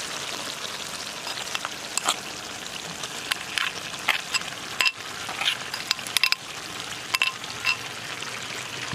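Pork pieces frying in a metal wok with a steady sizzling hiss, broken by a series of sharp metallic clinks of a utensil against the pan as sliced onion and chopped greens are added and stirred.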